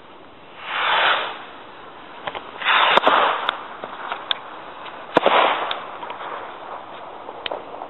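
Quiet 1.4g consumer firework rockets going off: three rushing whooshes a couple of seconds apart, with sharp cracks and scattered small pops.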